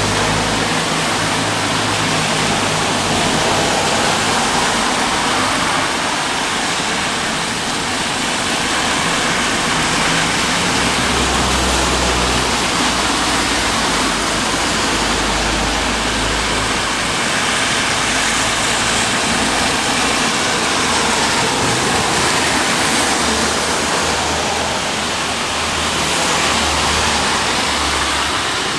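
Steady rain falling and pattering on a balcony, with a low rumble underneath.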